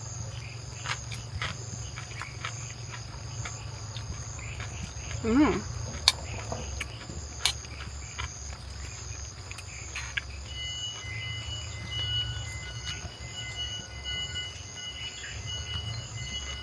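Crickets and other insects chirping steadily in a regular pulsing rhythm, over a low steady rumble, with a few light clicks and taps.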